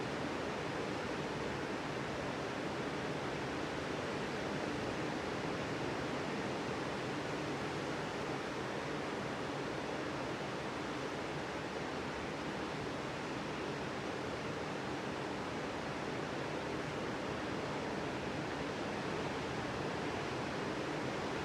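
Ocean surf breaking on a sandy beach, heard as a steady, even rushing wash with no single wave crash standing out.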